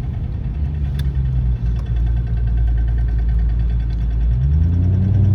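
Maserati GranTurismo MC Stradale's 4.7-litre naturally aspirated V8 idling steadily, its revs rising slightly about four seconds in.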